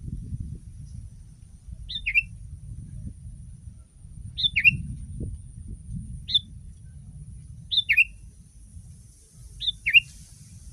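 Sooty-headed bulbul (kutilang) calling: five short two-note calls about every two seconds, each a quick high note followed by a lower, falling note, over a steady low rumble.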